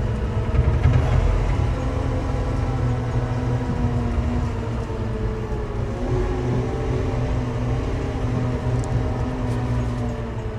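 Telehandler's diesel engine running steadily as the machine is driven along in gear.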